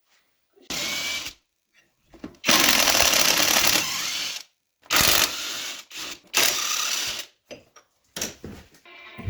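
Power tool running in four short bursts and a few brief blips, each starting and stopping abruptly; the longest runs about two seconds, beginning two and a half seconds in.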